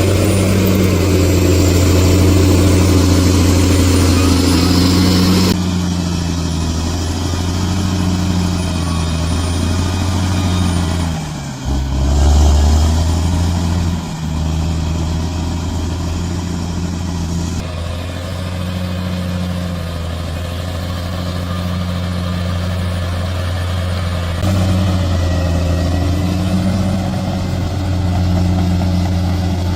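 Bulldozer's diesel engine running steadily under load, with a brief dip in the engine note about twelve seconds in before it picks up again. The sound changes abruptly several times, as at cuts between clips.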